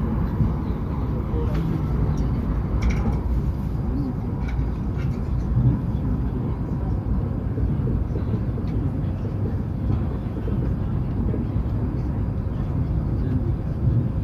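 Hokuriku Shinkansen train running at speed, heard from inside the carriage as a steady low rumble with a faint steady whine and a few light clicks.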